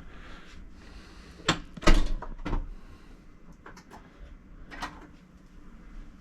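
A handful of sharp knocks and clatters, as of a door or cupboard being handled, the loudest a quick cluster about two seconds in and a few lighter ones after.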